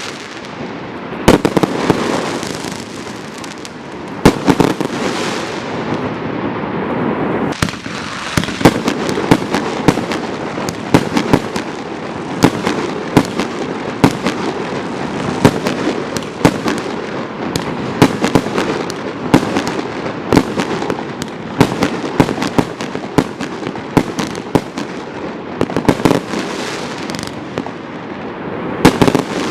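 Display firework cakes firing: sharp bangs over a continuous hiss. There are a few separate reports in the first seconds, then from about seven seconds in a rapid barrage of several bangs a second.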